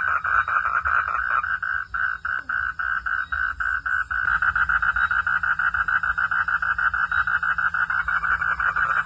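Frogs calling at night in a rapid, pulsing chorus, about ten pulses a second, thinning out for a couple of seconds before filling in again.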